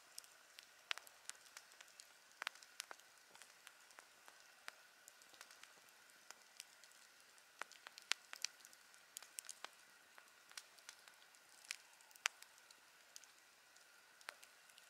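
Campfire crackling: irregular sharp pops and snaps of burning wood, sometimes several close together, over a faint steady hiss.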